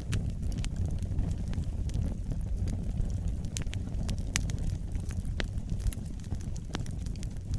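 Wood fire burning: a steady low rumble of flames with frequent sharp crackles and pops at irregular intervals.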